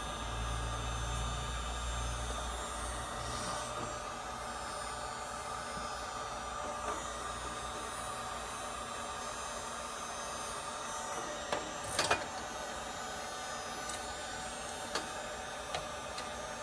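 A 1,000-watt electric heat gun running with a steady hum, with a few light clicks and knocks, the loudest about twelve seconds in.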